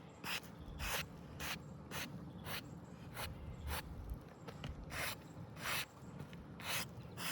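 Repeated short scraping strokes on asphalt roof shingles, about two a second.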